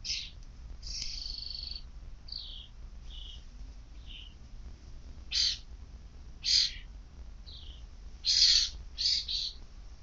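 Two birds calling back and forth: a string of short, high, harsh calls, quieter in the first half and louder in the second half, with a quick pair near the end.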